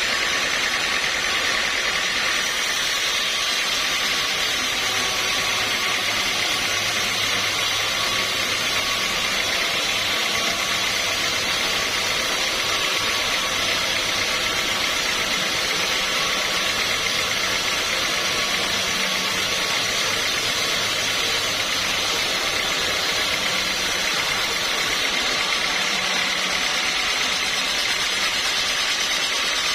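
Sawmill machinery running steadily: a motor hum under a constant, even noise, with no pauses or sudden changes.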